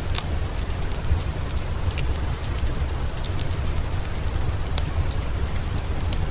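Steady rain falling, an even hiss over a deep low rumble, mixed with the sparse sharp crackles and pops of a wood fire burning in a fireplace.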